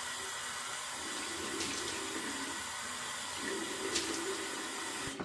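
Water running steadily from a tap into a sink, shut off suddenly near the end.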